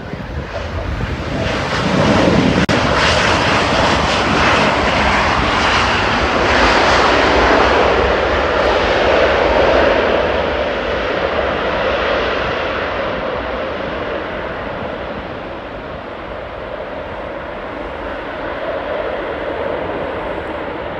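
Jet airliner passing close by. Its engine noise swells within about two seconds, stays loud for several seconds, then slowly dies away.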